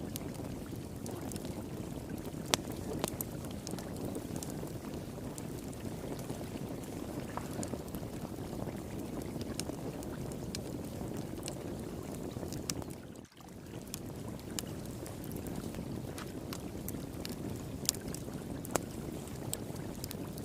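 Flowing water rushing steadily, with the scattered sharp pops and crackles of a wood fire pit over it. The whole sound dips briefly about two-thirds of the way through.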